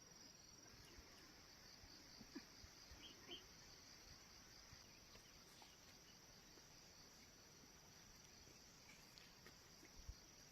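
Faint, steady chirring of insects: a continuous high-pitched, evenly pulsing drone, with a few soft, scattered knocks.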